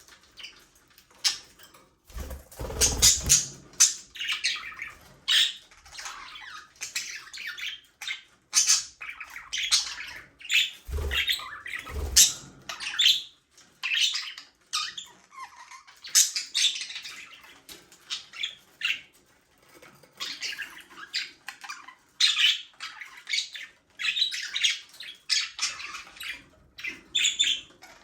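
A flock of budgerigars chattering: a dense run of short, overlapping chirps, warbles and squawks. Twice, about three seconds in and again near the middle, a brief low rumble or thump sounds under the chirping.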